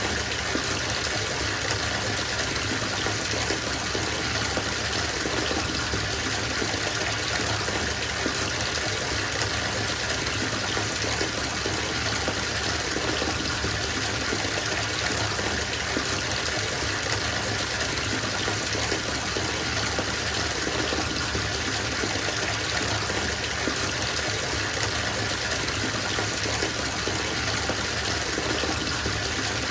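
Bathtub filling from the tap: a steady, unbroken gush of water pouring into the tub.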